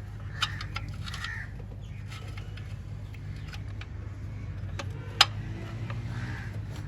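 Scattered light clicks and knocks of work on a car, with one sharp metallic clack about five seconds in, over a steady low hum; a few short bird calls in the background.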